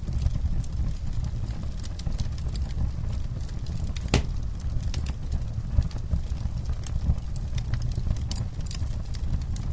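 Campfire burning: a steady low rumble of flame under frequent small crackles and pops, with one sharper pop about four seconds in.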